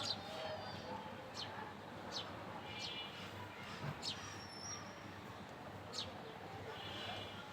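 Small birds chirping: short, sharp high-pitched chirps at irregular intervals, roughly one every second or so.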